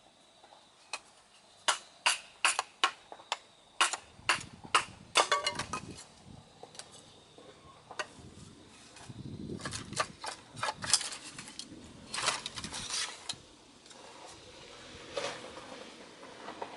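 A rapid series of sharp knocks and cracks in two flurries, a few seconds apart.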